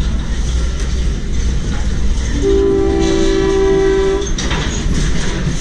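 Steady rumble of a moving passenger train heard from inside the coach, with the locomotive's air horn blowing one held chord of a few tones for about two seconds, starting about two and a half seconds in.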